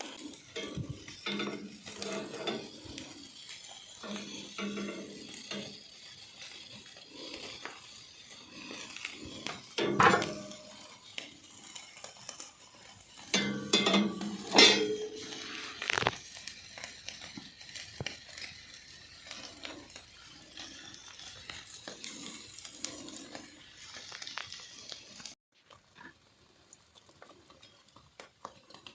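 Open wood fire crackling and food sizzling and squeaking on it, with scattered metallic clinks and knocks; the loudest knocks come about ten and fifteen seconds in. It goes much quieter near the end.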